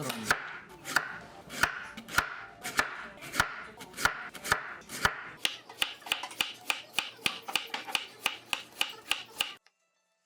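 Kitchen knife cutting carrot on a hinoki wood cutting board: sharp, even cuts about twice a second that quicken to about three a second halfway through, then stop shortly before the end.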